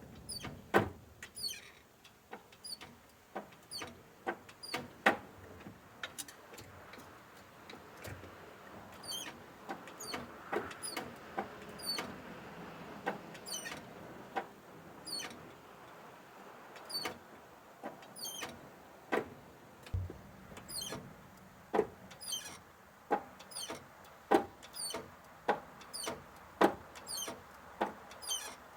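Clutch pedal linkage of a Mitsubishi J3 Jeep squeaking as the pedal is worked, short high-pitched squeaks about once a second. This is the linkage noise the repair sets out to cure.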